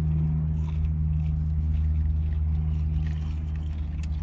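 Steady low hum of a car idling, heard from inside the cabin, with faint chewing.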